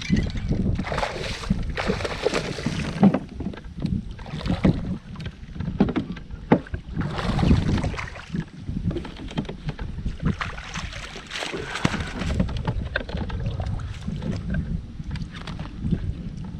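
Wind rumbling and gusting on the microphone on a fishing kayak, swelling into louder hissy gusts several times, with scattered small knocks.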